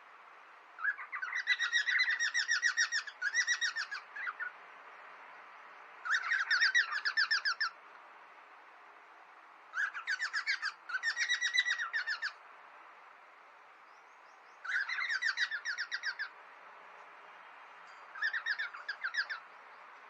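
Cockatiels chattering in five bouts of rapid, harsh, pulsed calls, each a second and a half to three seconds long, with short pauses between them.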